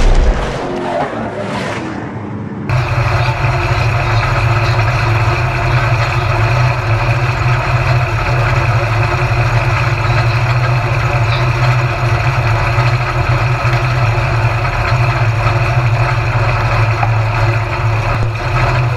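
Stock car engine running at a steady, even pitch, cutting in abruptly about three seconds in after a short burst of loud noise at the start.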